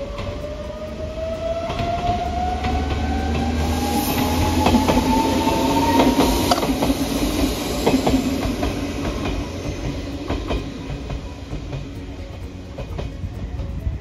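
A train passing close by: a whine that rises steadily in pitch until about halfway through, with the wheels clicking over rail joints. It grows loudest near the middle, then fades away.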